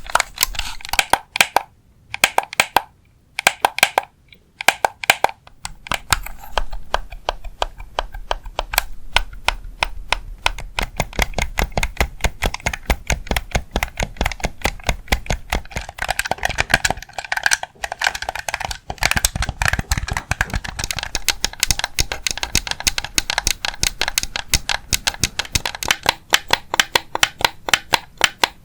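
Fast tapping, many light sharp taps a second, with a few brief pauses in the first five seconds.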